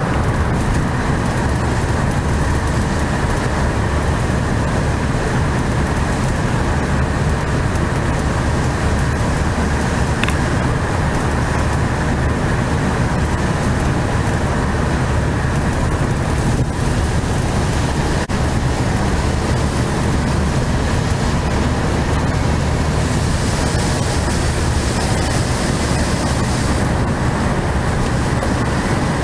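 A 1969 VW 1500 Beetle's air-cooled flat-four engine running steadily at a cruise, with road noise. A higher hiss joins in for a few seconds near the end.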